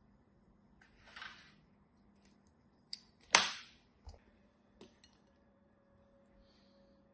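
A balloon popping once with a sharp bang about three seconds in, after a brief rubbery rustle about a second in, with a few small clicks after it.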